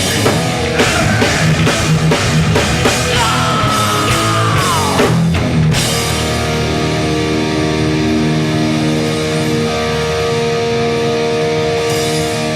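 Hardcore punk band playing live, with distorted electric guitars and a drum kit; a tone slides down in pitch shortly before the drums stop. About six seconds in the drums drop out and held guitar notes ring on.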